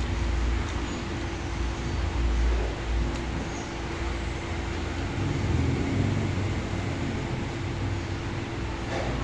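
Steady mechanical background hum and rumble, with one faint click near the end.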